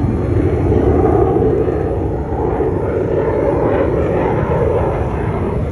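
Fighter jet engine noise: a loud, steady rush that eases a little near the end.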